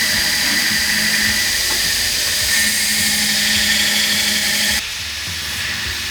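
Electric power tool working the steel of the leaf spring: a steady high whine over hissing noise, which drops abruptly to a quieter hiss near the end.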